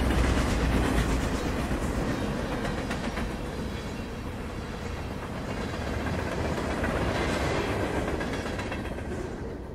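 Union Pacific freight train's cars rolling past close by: a steady rumble and rattle of steel wheels on the rails, easing off near the end.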